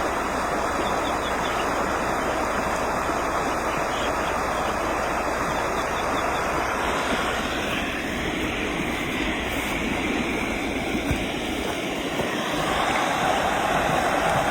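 Rushing water, a stream or waterfall running with a steady, even roar.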